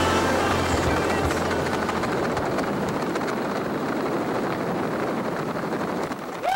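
Steady rushing air noise, easing off slowly in level, typical of a skydive.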